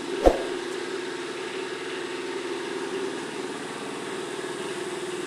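A steady machine hum, with one sharp knock shortly after the start.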